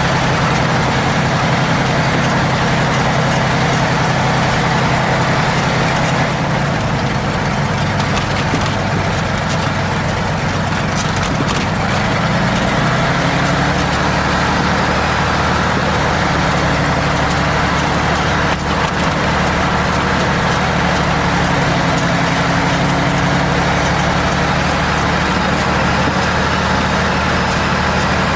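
Piston engine of a Zlin Z-226MS light aircraft running steadily in flight, heard from on board. The engine note changes slightly about halfway through.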